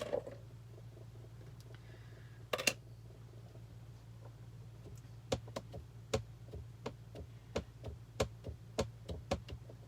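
A sharp double click about two and a half seconds in, then a run of light clicks and taps, two or three a second, from hands working a Stamparatus stamp-positioning tool and setting its magnets.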